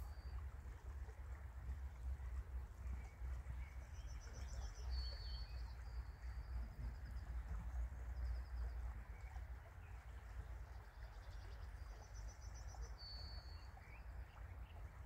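Outdoor ambience: a small bird sings twice in short runs of high, thin, trilled notes over a steady low rumble and a soft haze of background noise.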